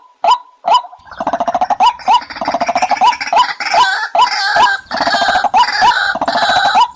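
White-breasted waterhen calling: a regular series of sharp, pitched notes about two a second, joined about a second in by a louder, dense chattering and gurgling chorus that carries on alongside them.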